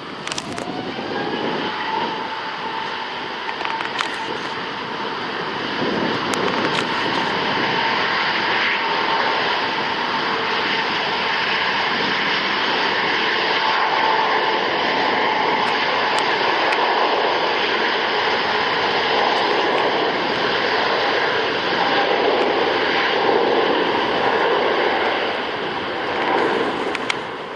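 Airbus A350-900's Rolls-Royce Trent XWB turbofans at takeoff thrust: a steady, loud jet roar, with a whine rising in pitch during the first second and then holding, and the roar growing louder about six seconds in.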